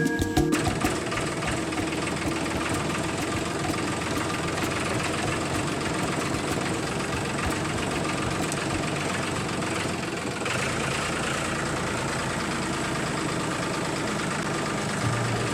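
Small motor of a homemade mini tractor running steadily with a fast, even rattle; its tone shifts slightly about ten seconds in.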